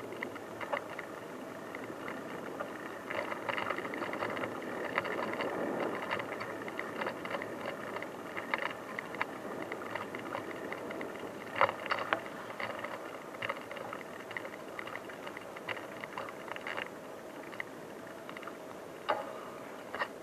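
Bicycle rolling over a rough unpaved track, with a steady hiss of tyre and ground noise and frequent light rattles and clicks from the bike. There are a few sharper knocks, two close together about twelve seconds in and one near the end.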